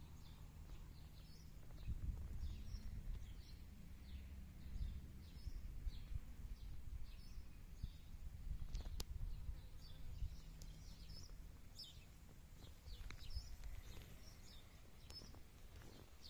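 Small birds chirping: short, high calls repeating over and over above a steady low rumble. There are a couple of sharp clicks about nine and thirteen seconds in.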